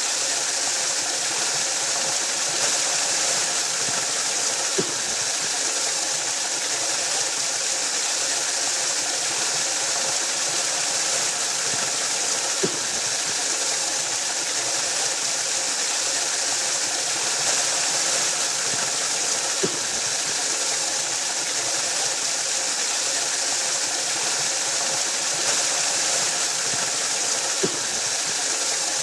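Waterfall: water falling and rushing in a steady, even hiss. A faint soft click comes about every seven to eight seconds.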